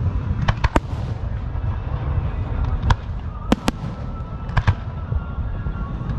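Fireworks going off: sharp cracks in quick clusters of two or three over a continuous low rumble of distant bursts.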